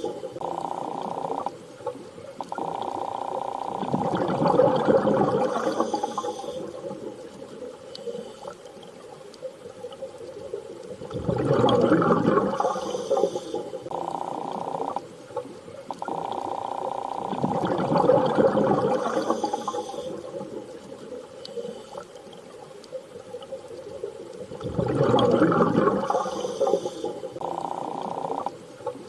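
An underwater-style water ambience: a rushing swell of water rises and falls about every seven seconds over a steady hum that breaks off now and then.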